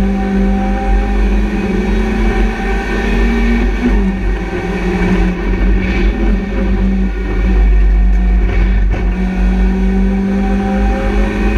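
BMW Compact race car's engine running hard under load, heard from inside the cabin, with a steady, loud engine note. The note breaks briefly about seven seconds in and then picks up again.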